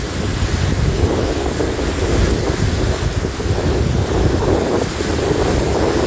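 Rushing water of a mountain stream, a steady noise, with wind buffeting the microphone in low rumbling gusts.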